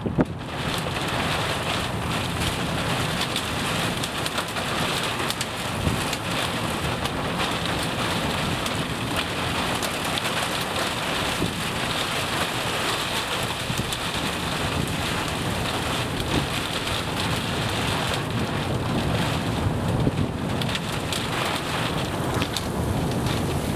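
Heavy rain and wind in a tornadic storm: a steady, dense rush with many close rain hits and no breaks.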